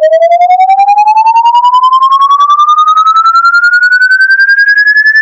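Electronic tone rising steadily and smoothly in pitch, from a low hum toward a high whine, pulsing rapidly about nine times a second. It is the 'weird sound' played for a dog to react to.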